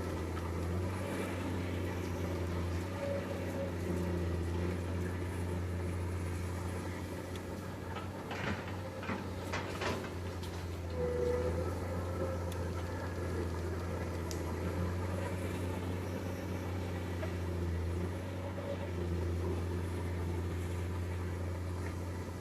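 Komatsu PC200 hydraulic excavator's diesel engine running steadily with a deep, even drone, with a few sharp knocks about a third of the way in.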